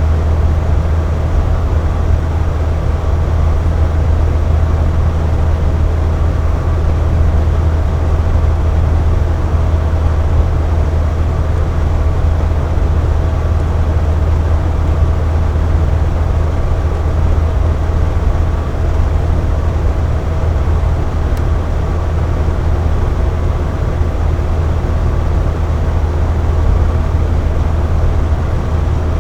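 Air conditioner running steadily: a constant low hum with an even rush of blowing air and a faint steady whine above it.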